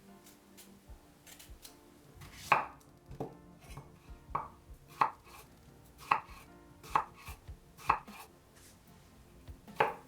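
Kitchen knife cutting a turnip on a cutting board. Faint light taps at first, then from about two seconds in, distinct sharp knocks of the blade meeting the board, unevenly spaced at roughly one a second.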